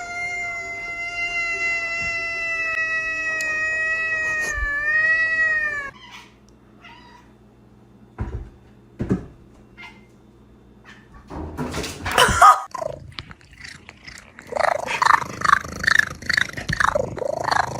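A cat's long, drawn-out yowl that holds about six seconds and wavers in pitch before it stops. After a quiet gap and a brief rustle, a quick run of short cries follows near the end.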